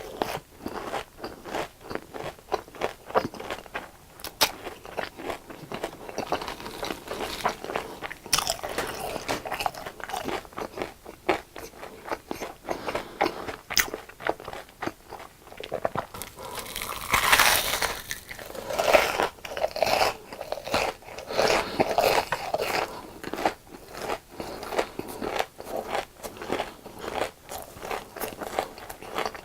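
Close-miked crunching and chewing of crispy deep-fried food: bite after bite of a breaded cutlet, fries or fried shrimp, crackling loudly, with a busier, louder run of crunches about seventeen seconds in.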